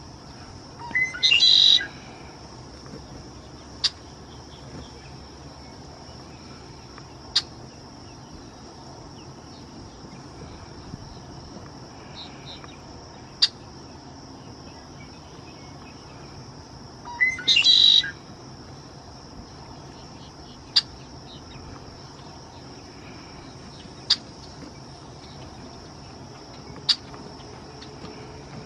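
Red-winged blackbird singing its song twice, once near the start and again about halfway through, with short sharp chip notes every few seconds in between.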